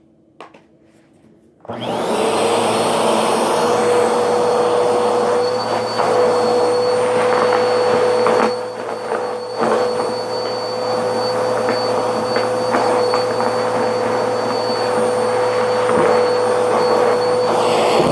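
Vacuum cleaner switched on about two seconds in, then running steadily with a high whine, briefly dipping a couple of times.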